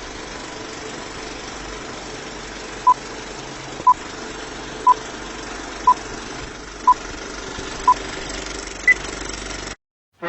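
Six short electronic beeps about a second apart, then a single higher-pitched beep, in the pattern of a countdown, over a steady engine-like rumble. The sound cuts off suddenly at the end.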